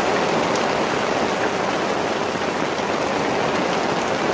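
Heavy rain pouring onto open lake water, a steady even hiss.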